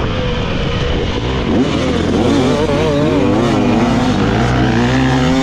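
Dirt bike engine revving up and down over and over as it is ridden around a motocross track, its pitch rising and falling every second or so with a rising run near the end.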